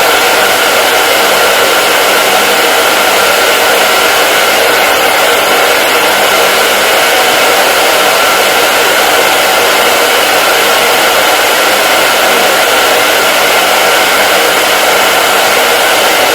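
Hair dryer running continuously: a steady, even rush of air with a faint motor whine and no change in speed.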